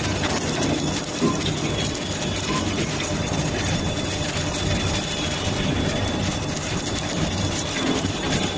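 Steady industrial machinery noise, a low hum and rumble with a faint thin high whine, typical of submerged arc welding equipment running on a workshop floor.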